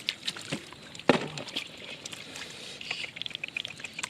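Hands sloshing and splashing in shallow muddy water, with many small splashes and one sharp, loud splash about a second in.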